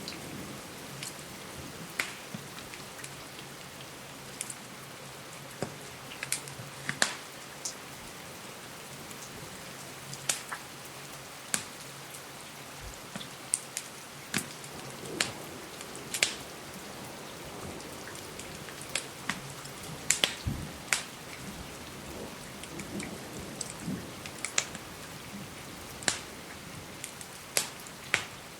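Steady rain hiss with the sharp, irregular pops and crackles of a wood fire, about one every second.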